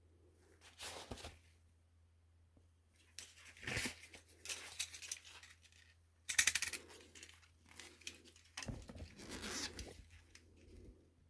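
Irregular handling noises: several separate bursts of scraping, rustling and tearing-like sounds with a few sharp clicks, as parts or wiring are worked by hand.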